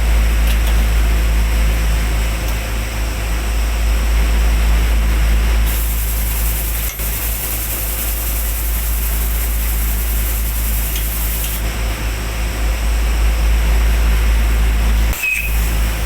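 Steady low machine hum, with a loud high hiss of escaping gas that starts about six seconds in and stops about five seconds later.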